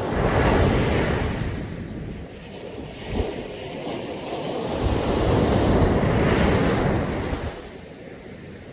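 Sea waves breaking on a beach: one wave crashes right at the start and washes out over the next two seconds, then a second builds and breaks about five to six seconds in before dying down.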